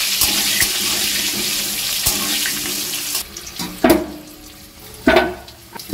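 Potatoes frying in hot oil in a steel kadai, with a loud, steady sizzle for about three seconds. Then the sizzle drops to a quieter level, and a metal spatula strikes the pan sharply twice.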